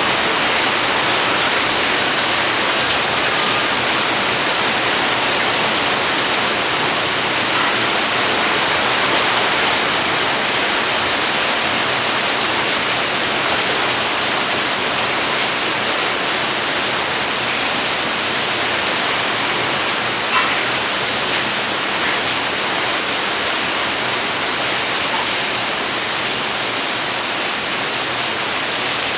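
Heavy rain falling steadily, a dense, even hiss with a few faint ticks of single drops.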